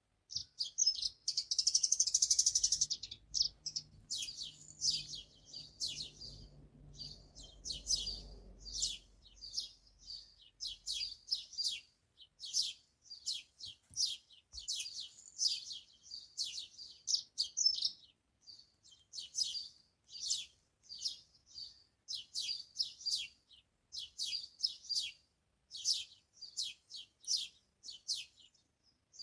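Small songbirds chirping and singing, a steady string of short high notes several times a second, with a louder burst of rapid twittering about two seconds in.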